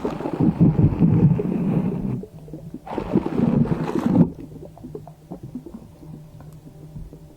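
Slime being squished and kneaded by hand, with wet, squelching crackles in two bursts, the second ending about four seconds in, then much quieter handling with a faint low hum underneath.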